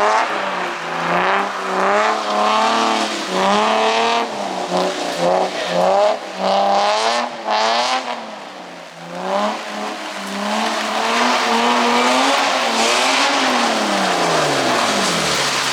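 A car engine revving hard while drifting, its pitch rising and falling over and over with the throttle, over a hiss of tyre noise; near the end the revs fall away steeply.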